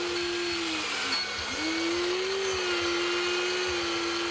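Small electric motor of a radio-controlled construction toy whining steadily. The whine dips and stops about a second in, then starts again with a slight rise in pitch.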